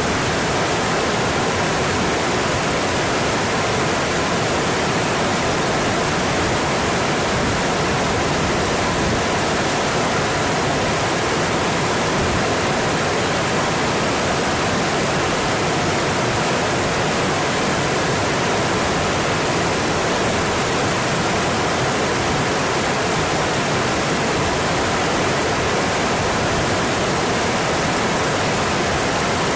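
Mountain stream flowing over its rocky bed, a steady, even rush of water.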